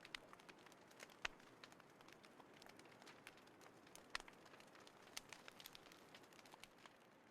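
Small wood fire in a compact folding fire pit crackling quietly, with many irregular sharp pops and a couple of louder ones about a second in and about four seconds in.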